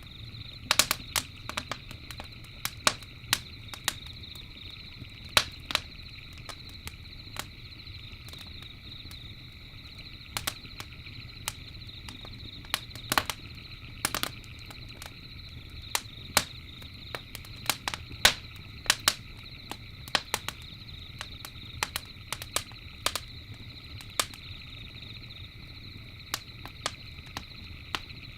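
Campfire crackling: irregular sharp pops and snaps of burning wood, sometimes in quick clusters, over a steady low rumble of the fire. A steady high-pitched drone runs underneath.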